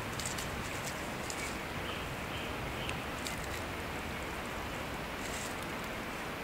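Wood campfire cooking: a steady hiss with scattered faint crackles.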